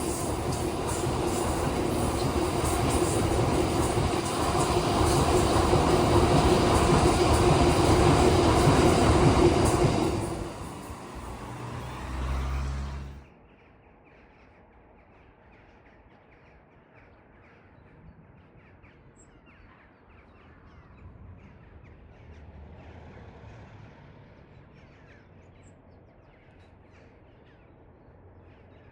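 A train passing close by on the main line, its rumble and rail noise building for about ten seconds and then dying away. The sound cuts off abruptly about a third of the way in, leaving a quiet background with crows cawing faintly.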